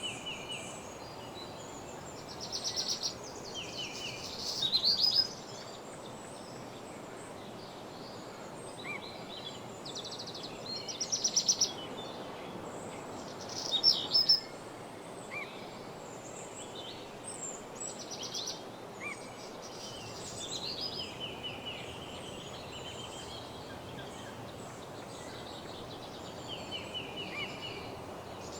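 Songbirds singing in woodland: short, rapid trilled phrases every few seconds, the loudest about 5, 11 and 14 seconds in, with scattered chirps between, over a steady background hiss.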